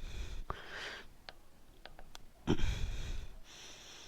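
Heavy breaths close to the microphone, three of them, the loudest about two and a half seconds in, with a few small sharp clicks in the first two seconds from hand-tightening a motorcycle engine cap back on.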